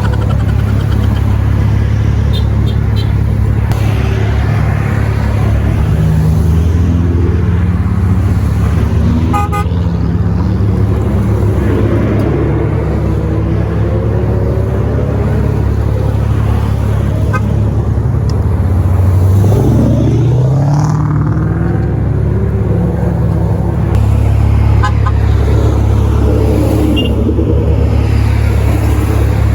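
Muscle car engines running in a group drive, a steady low drone with one engine revving up and back down about two-thirds of the way through. Short car-horn toots sound several times.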